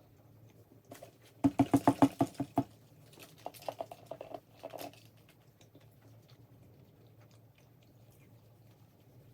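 A person's voice: a quick run of about nine loud, pitched pulses lasting about a second, then a quieter run of similar pulses, with faint clicks before and after.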